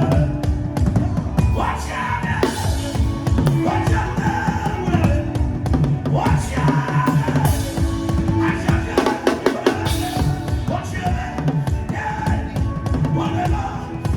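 Music driven by fast, dense drumming: rapid drum strokes over a deep bass, with sustained pitched notes behind them.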